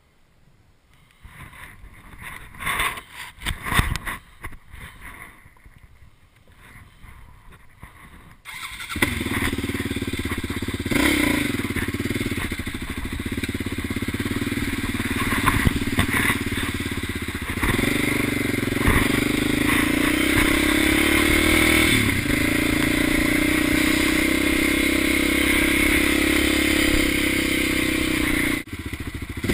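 Dirt bike engine. For the first few seconds there is only irregular clatter and knocking, then the engine sound comes in abruptly and runs loud, its pitch rising and falling with the throttle as the bike rides. The engine sound dips briefly near the end.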